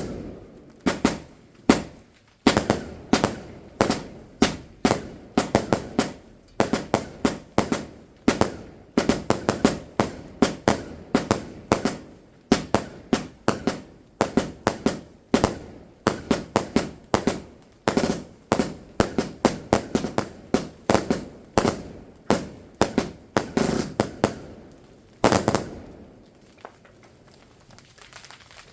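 Fireworks going off in a rapid, continuous series of sharp bangs, often in quick clusters, for about 25 seconds before stopping.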